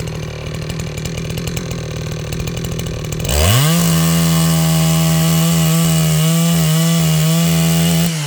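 Two-stroke chainsaw idling, then revved to full throttle about three seconds in and held there for about five seconds as it cuts into firewood logs, its pitch dipping slightly under the load, before dropping back to idle near the end.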